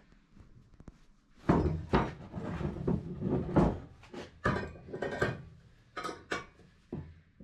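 Irregular clattering and knocking of hard objects being handled and set down, starting about a second and a half in.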